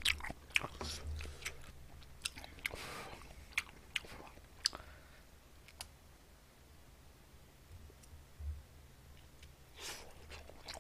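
Chewing and biting on a grilled Korean rice cake, with sharp wet mouth clicks close to the microphone. The clicks come thickly in the first few seconds, die down to almost nothing in the middle, and pick up again near the end.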